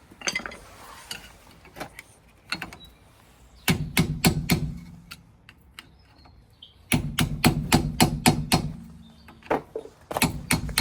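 Hammer knocking off a wheel hub's metal dust cap: a quick run of about five sharp metallic strikes, then a longer run of about eight, with a low ring behind each run and a few lighter taps near the end.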